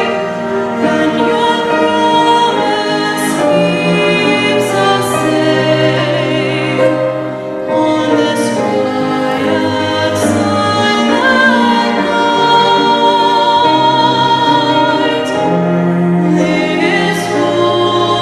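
Classical-style singing with instrumental accompaniment: long held notes with vibrato over a steady low accompaniment.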